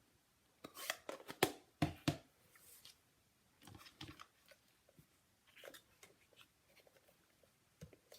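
Paper-crafting supplies being handled on a work table: a cluster of sharp clicks, knocks and paper rustles about a second in, then lighter scattered taps and rustles.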